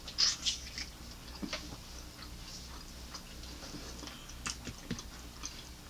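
Biting into and chewing a crispy fried chicken wing: a crunchy crackle of the fried breading in the first second, then a few soft, scattered chewing clicks.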